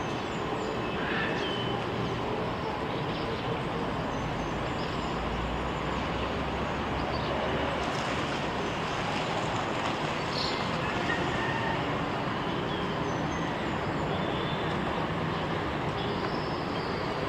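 Steady rushing background noise at an even level throughout, with a few brief faint high chirps over it.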